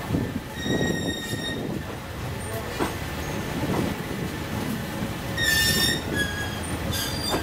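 Passenger train rolling slowly on the rails, with a steady low rumble and high-pitched metallic squeals from the wheels: one lasting about a second just after the start, another about five and a half seconds in, and shorter ones near the end.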